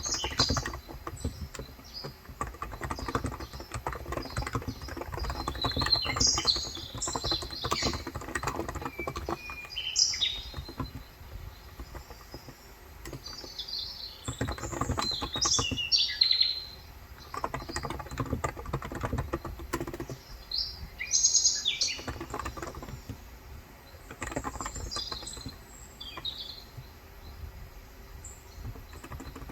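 Typing on a Cox Endeavour electro-capacitive (Topre-style, 35 g) tenkeyless keyboard in runs of rapid keystrokes with short pauses, recorded on a phone's microphone. Birds chirp repeatedly over it, in short clusters of high calls every few seconds.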